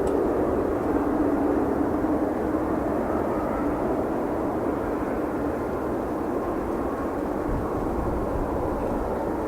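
Jet engines of a Boeing 777-200ER, a steady low rumble that eases slightly over a few seconds.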